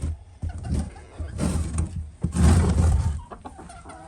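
Chickens clucking as they are let out of the coop, under loud rustling and knocking close to the microphone, heaviest twice in the middle.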